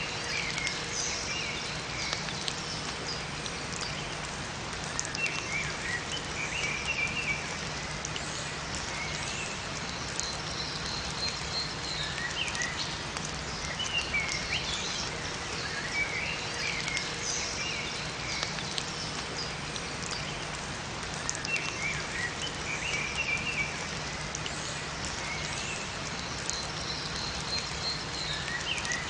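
Steady rain falling in a forest, with scattered drops, while small songbirds chirp in short bursts of calls every few seconds.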